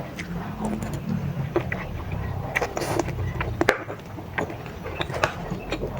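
Close-miked chewing of baso aci, tapioca meatballs in spicy broth, with irregular sharp mouth clicks and smacks.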